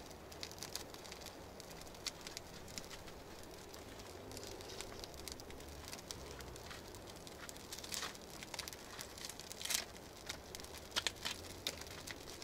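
Newly lit campfire of birch bark and damp wood crackling, with irregular sharp pops over a faint steady hiss and a few louder pops near the end.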